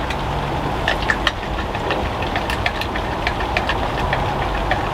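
Rain falling: many scattered, irregular taps of drops over a steady low rumble.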